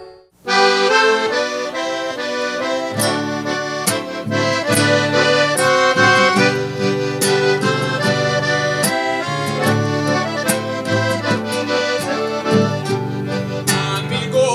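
Accordion playing an instrumental tune over a steady bass line, coming in after a brief gap near the start.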